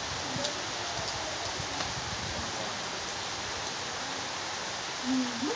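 Steady heavy rain falling on the ground and foliage. Near the end comes a short pitched call that rises in pitch.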